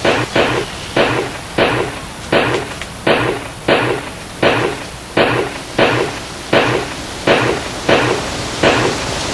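A steady series of dull, chopping-like hits, about three every two seconds, each fading quickly.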